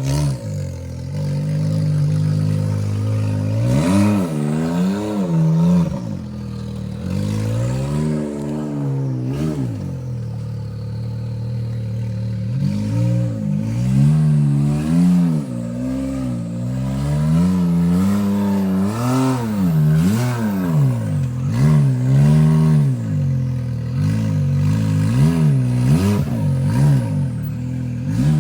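Side-by-side UTV engine revving up and falling back again and again in short throttle bursts as it crawls up a boulder-filled rock notch, with a few knocks from the machine working over rock.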